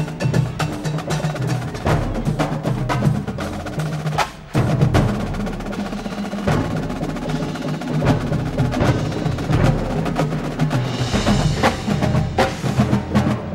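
Drum and bugle corps playing: sustained brass chords over rapid marching-percussion strokes and front-ensemble percussion. There is a brief break about four seconds in, and a wash of cymbals near the end.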